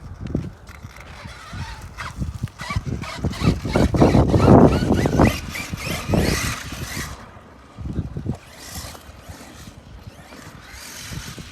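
Arma Mojave 6S RC truck running hard on a dirt track: a motor whine with tyres scrabbling and throwing dirt, and a rapid run of clattering knocks that is loudest about four to five seconds in. A shorter burst follows about eight seconds in.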